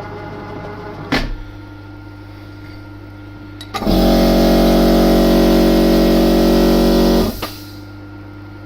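A machine hum with a fading tone and a click about a second in; then a loud electric motor runs at one steady pitch for about three and a half seconds, starting and stopping abruptly.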